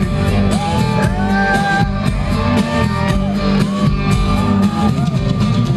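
Live country band playing an instrumental passage: steady drums and bass under an electric guitar lead line with sliding, bent notes.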